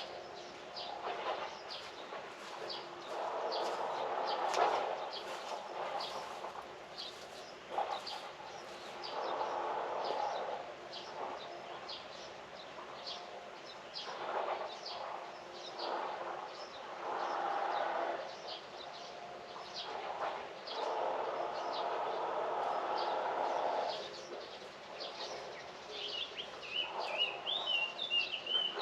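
Birds chirping outdoors: many short high calls throughout, with a lower, rougher sound swelling and fading every few seconds. Near the end a fast, high warbling bird song starts.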